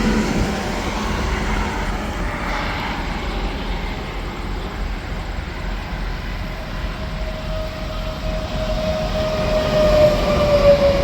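Tractor-trailers and traffic passing on an interstate highway: steady tyre and engine rumble, with a whine that slowly falls in pitch and grows louder as a truck goes by near the end.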